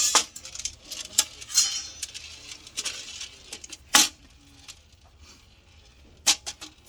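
Metal hardware being handled: sharp clinks and knocks with some rattling and scraping, the loudest knock about four seconds in, then two more close together near the end.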